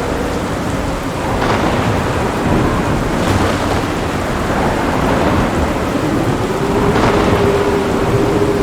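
Heavy rain falling steadily through a rolling thunderstorm rumble, with sharper crackles of thunder about a second and a half, three seconds and seven seconds in.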